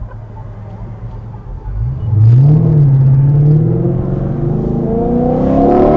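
Dodge Charger Scat Pack's 6.4-litre HEMI V8 with Flowmaster Super 10 mufflers, running low for about two seconds, then opening up under throttle: the exhaust note jumps sharply in loudness and rises in pitch, holds, and climbs again near the end.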